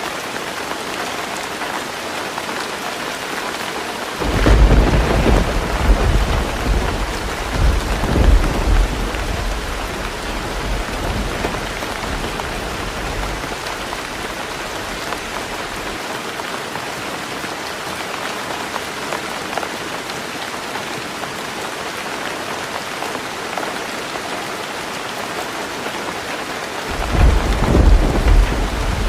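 Heavy rain drumming steadily on a tin roof, with a sudden low rumble of thunder about four seconds in that rolls on for several seconds and fades, and a second rumble starting near the end.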